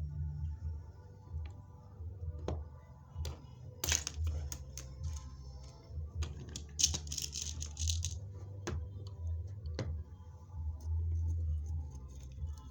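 Hand-operated bead rivet machine clicking as it presses beads and pins into a chiffon scarf, several separate clicks a second or so apart, with brief rustles of the fabric being handled. Quiet background music runs underneath.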